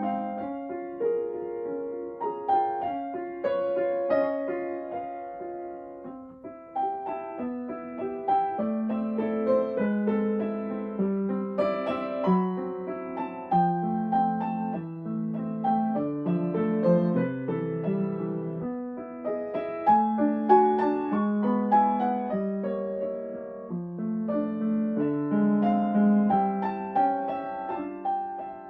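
Solo piano playing a melody over a repeated low accompaniment, with many notes in quick succession; it eases off about six seconds in and swells to its loudest around twenty seconds in.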